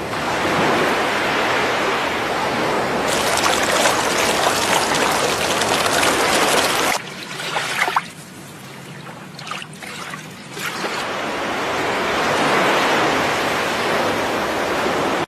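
Rushing water of a waterfall, a steady noisy roar. About seven seconds in it drops much quieter for a few seconds, with a couple of knocks, then swells back up.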